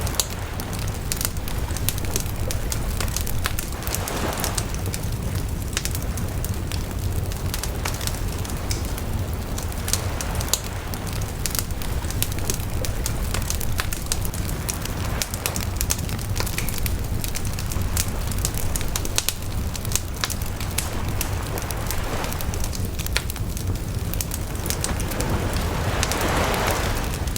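Wood bonfire burning, with dense crackling and sharp pops throughout over a steady low rumble, and brief swells of rushing flame noise twice, about four seconds in and near the end.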